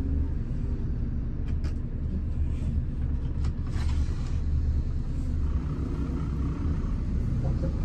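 Hino RM 280 bus on the move, a steady low engine and road rumble.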